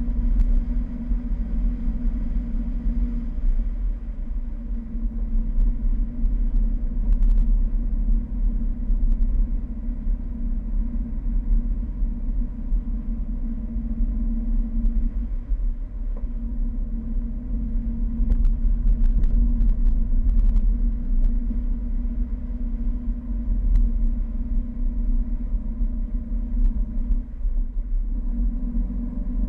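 Fiat 1200 Spyder's four-cylinder engine running steadily while the car is driven, under heavy wind rumble on the bonnet-mounted microphone. A few faint ticks are heard in the second half.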